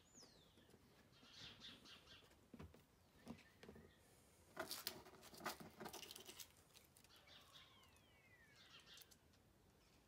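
Quiet, with faint bird calls: a falling whistle right at the start and a couple of descending calls near the end. About halfway through comes a short run of small clicks and rustles from hands handling a tyre patch kit.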